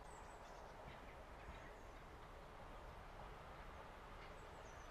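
Faint outdoor ambience: a few brief high bird chirps over a steady low rumble.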